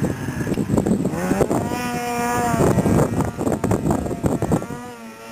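Snowmobile engines whining as they rev, each tone swinging up in pitch, holding, then falling, over a rough rumble of wind buffeting the microphone.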